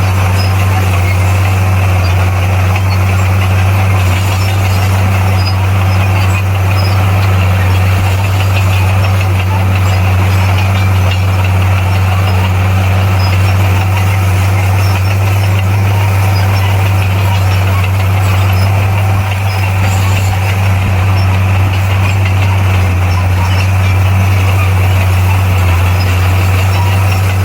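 Bulldozer's diesel engine running steadily under load, a deep, even drone with no change in pitch.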